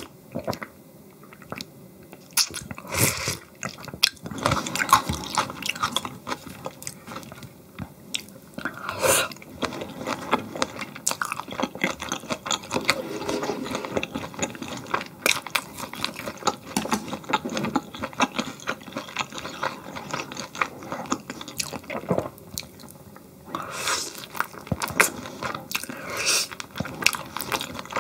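Close-miked eating: a person chewing and biting food, with dense, irregular wet clicks and small crunches. There is a louder, noisier stretch of a few seconds near the end.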